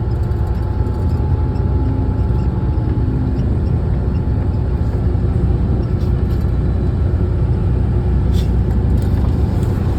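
Big truck's engine and road noise heard from inside the cab while driving: a steady low rumble.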